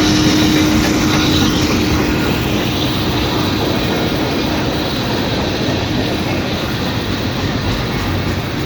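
Freight cars of a long train rolling past close by: a steady, loud rumble of steel wheels on rail that eases slowly. A steady hum from the departing locomotives fades out about halfway through.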